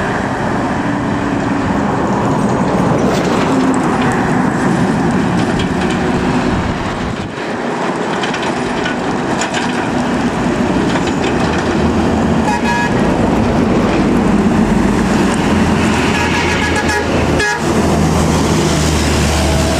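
Heavy road vehicles, buses and trucks, running past at speed with steady engine and tyre noise. A vehicle horn sounds twice in the second half.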